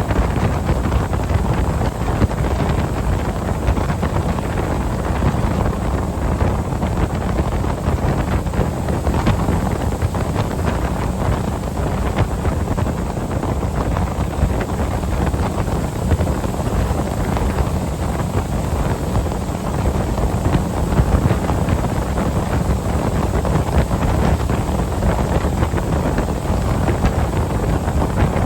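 Steady wind buffeting the microphone over the running tow boat, its engine and hull on the water giving a continuous low rumble.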